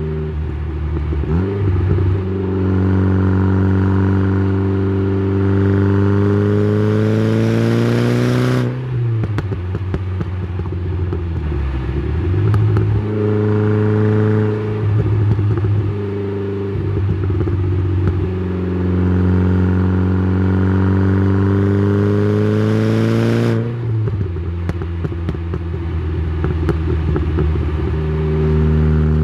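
Exhaust of a tuned Saab 9-3 with a turbocharged B204 2.0-litre four-cylinder, heard through a microphone at the tailpipe. The engine pulls with its pitch climbing steadily, then drops away sharply about 9 seconds in. It runs lower and unevenly for a while, then climbs again and drops off sharply about 24 seconds in.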